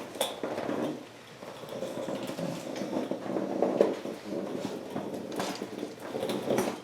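Scattered light knocks and metallic clinks of hand tools and metal engine parts being handled, with no steady machine sound.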